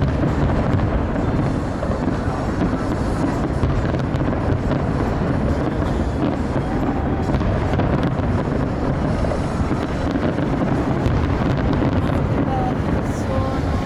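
A distant fireworks display keeps up a steady low rumble of bangs, mixed with crowd noise and wind on the microphone.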